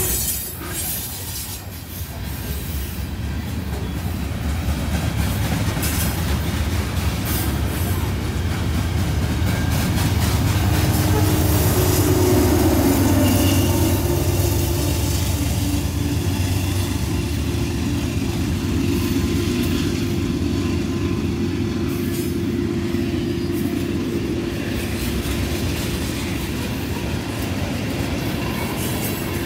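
A long freight train of hopper, tank and box cars rolling past on steel wheels, with steady rumbling and clatter. A Canadian Pacific diesel locomotive running mid-train passes close by about halfway through, where the sound is loudest and a steady engine tone comes in.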